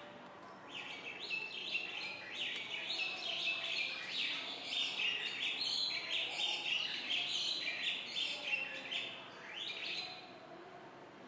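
Small birds chirping busily, a quick run of short rising chirps that starts about a second in and stops near the end.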